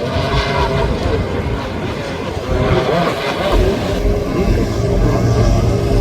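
Motorized surfboard (motosurf) engines running on the water, their pitch rising and falling as the riders work the throttle.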